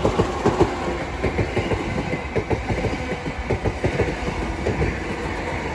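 Southeastern Class 465 Networker electric multiple unit passing through, wheels clicking rapidly over the rail joints over a steady low rumble.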